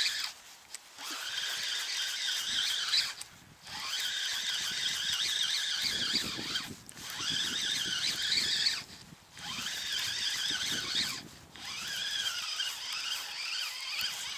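Spinning reel on a feeder rod cranked in bursts of a few seconds with short pauses between, its gearing giving a wavering squealing whine: a hooked fish, a small bream, being reeled in.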